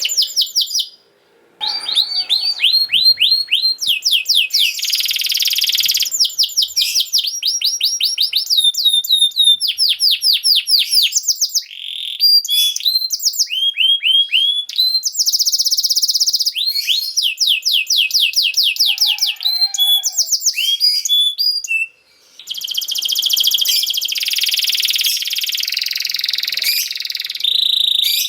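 Domestic canary singing a long song of fast trills: quick runs of repeated downward-slurred whistled notes, switching from one phrase to the next, with two brief pauses.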